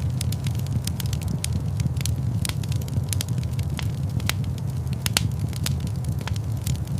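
Wood fire crackling in a fireplace: a steady low rumble of flame with frequent irregular sharp pops and snaps.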